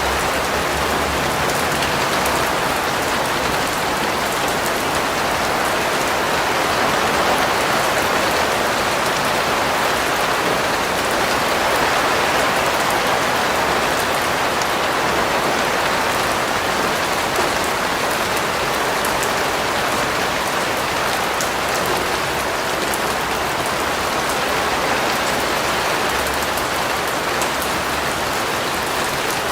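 Steady rain falling on a surface, an even hiss with scattered fine drop patter, unchanging in level.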